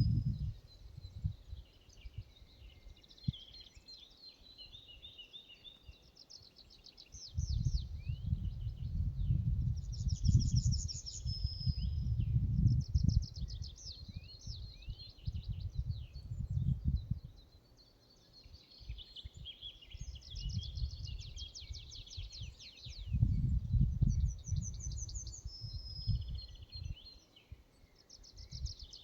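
Forest songbirds singing, several at once, with repeated rapid trills and short whistled phrases. A low, gusty rumble comes and goes underneath, like wind buffeting the microphone, strongest from about a quarter of the way in and again near the end.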